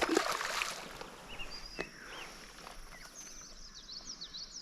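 A sharp knock and a brief splash of water lasting under a second, then from about three seconds in a run of quick, high bird chirps.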